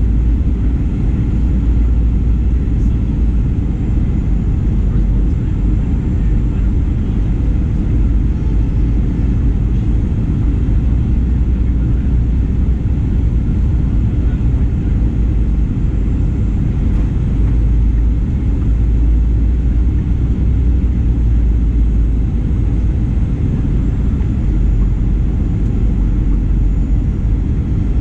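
Steady cabin noise inside a Boeing 737-900ER: an even, deep rumble of the CFM56 jet engines and airflow, with no sudden changes.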